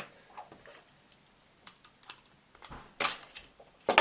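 Light plastic clicks and clacks of a Beyblade top and its launcher being handled and fitted together, with two louder clacks about three and four seconds in.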